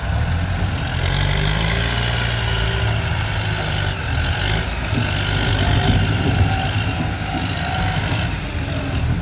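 Kubota M108S tractor's diesel engine running steadily, with a hiss of heavy rain setting in about a second in.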